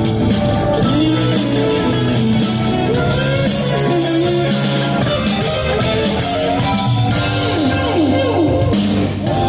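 Live rock band playing an instrumental passage, with a lead guitar line bending between notes over bass and drum kit.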